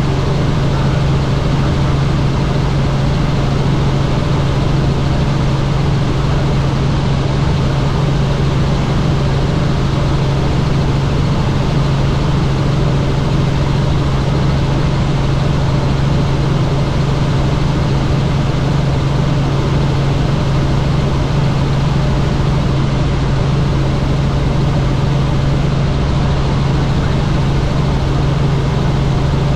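Helicopter in flight: a loud, steady drone of rotor and turbine with a strong low hum under a broad rushing noise, unchanging throughout.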